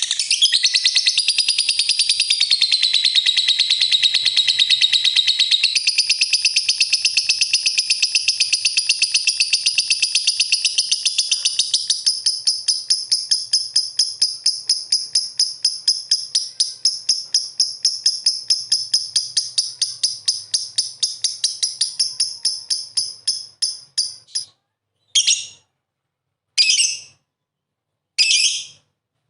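Lovebird singing one long, very rapid, high chattering trill. The trill loosens into separate notes, fades and stops, then comes back as three short bursts near the end.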